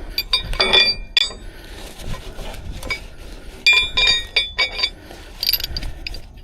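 Steel rigging hardware being handled: pieces knock together with sharp, ringing clinks, in one cluster at the start and another about midway, then a short rattle.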